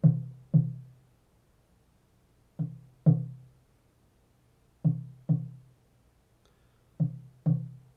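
A low-pitched drum struck in pairs, like a heartbeat: four double beats, each stroke dying away quickly, with silence between the pairs.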